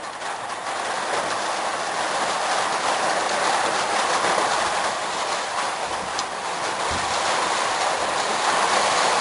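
Hail and heavy rain pelting down in a dense, steady rush with scattered small taps of stones striking, swelling slightly toward the end.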